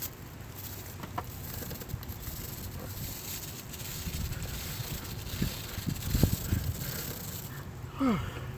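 Chain brush scrubbing a degreaser-soaked motorcycle chain as the rear wheel is turned: a steady scratchy hiss, with a few low knocks about six seconds in.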